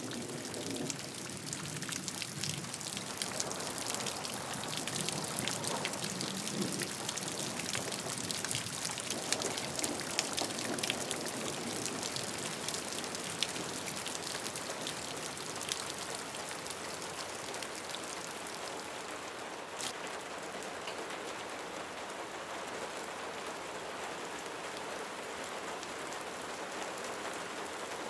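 Steady rain falling on a roof, a dense patter of individual drops ticking over an even hiss. A low rumble of distant thunder dies away in the first few seconds.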